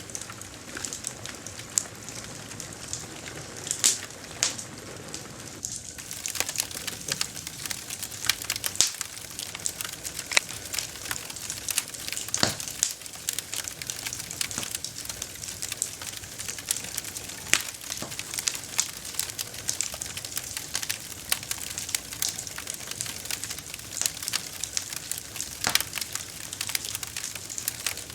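Wood campfire crackling: a dense run of small snaps over a soft hiss, with louder single pops every few seconds.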